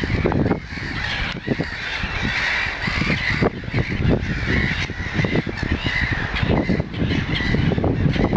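Birds calling, heard over a loud low rumble with many short knocks.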